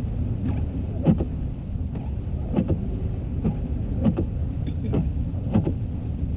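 Car driving on a snowy road, heard inside the cabin: a steady low rumble of engine and tyres, with frequent short knocks and taps over it.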